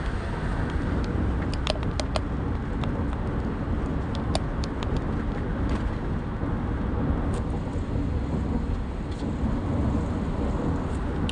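Steady road and engine noise of a vehicle driving at speed along a highway, with a few faint clicks scattered through it.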